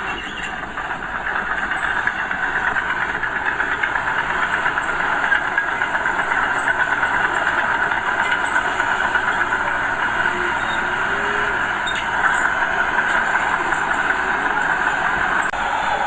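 Diesel engine of earthmoving machinery running steadily, getting a little louder about two seconds in.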